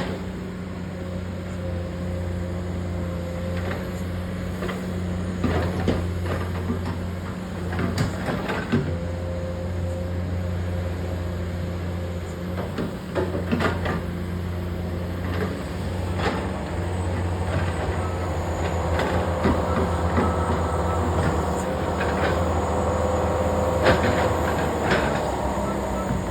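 A truck's diesel engine running steadily at low revs, with scattered short knocks and rattles from the truck and its load.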